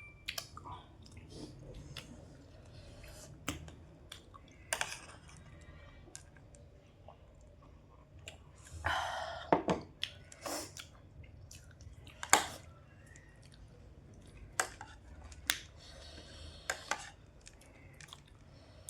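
Close-up chewing of jhalmuri, spiced puffed rice, with scattered sharp clicks and a longer crackly burst about nine seconds in.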